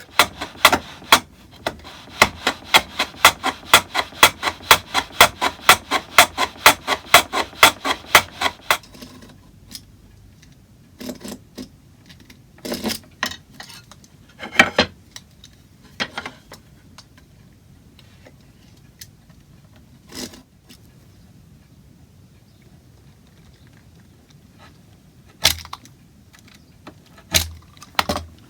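Hand saw cutting wood, an even run of strokes about three to four a second that stops after about nine seconds, followed by a few scattered knocks and clicks of tools and wood being handled.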